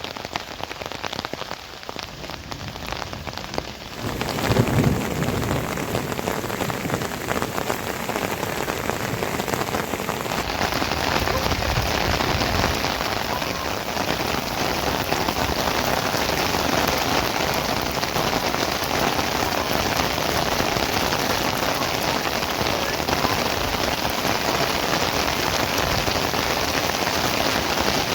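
Steady rain falling on surfaces, a dense patter that gets louder about four seconds in and again around ten seconds in.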